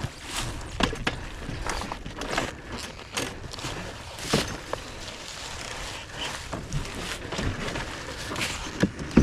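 Scattered, irregular clicks, knocks and light clanks of a dirt bike being handled and checked by hand, its engine not running.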